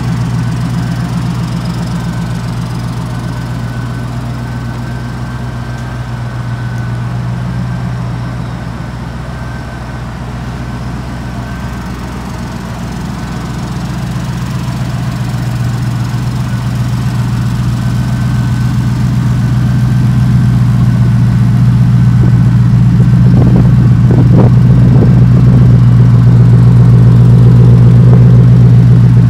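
Shelby Series 1's V8 idling with a steady low hum that grows louder over the second half, with a brief wavering in pitch a few seconds before the end.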